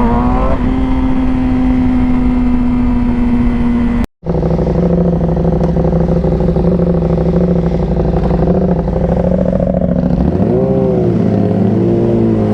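Yamaha R6 sport bike's inline-four engine running steadily at road speed, heard from the rider with wind noise over it. The sound drops out for an instant about four seconds in, and near the end the engine note dips and climbs again.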